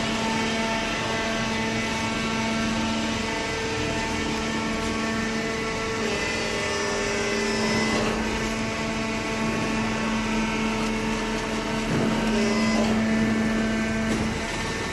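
Hydraulic cardboard baler running, its motor and hydraulic pump giving a steady, even hum with small shifts in pitch.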